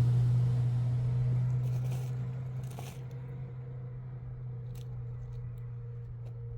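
A steady low hum throughout, with a rushing noise that fades away over the first two seconds and a few light clicks and taps after that.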